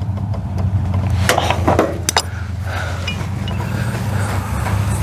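A few sharp metallic clicks of wrenches working loose the gas line fitting on an RV furnace, over a steady low machine hum.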